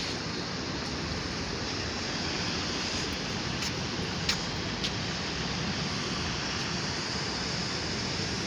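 Steady wash of sea surf, with wind on the microphone; two faint clicks about four and a half seconds in.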